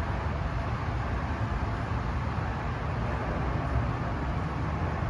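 Steady low rumble with a fainter hiss of outdoor background noise, even throughout.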